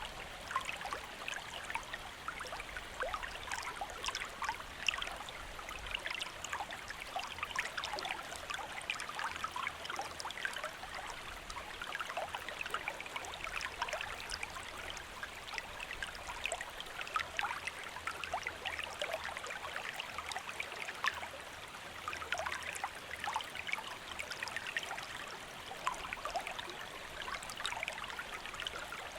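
A small river or stream flowing steadily over rocks, a continuous rush with many small splashes and gurgles through it.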